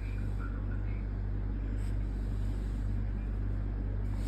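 Steady low hum over a faint even background noise, unchanging throughout.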